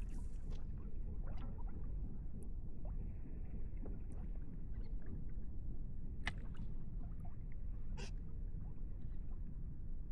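Water lapping and sloshing against a fishing kayak's hull over a steady low rumble, with a few light clicks and knocks, the sharpest about six and eight seconds in.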